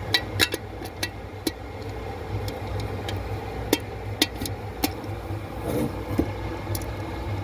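Light metallic clicks and knocks as a John Deere 820 clutch bearing, worn loose enough to pull straight out by hand, is handled and slid out, over a steady low hum. A bearing that comes out this easily is a sign of a worn bearing fit.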